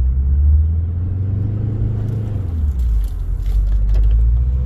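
Off-road vehicle's engine working under load as it plows through deep snow: a loud, steady low rumble.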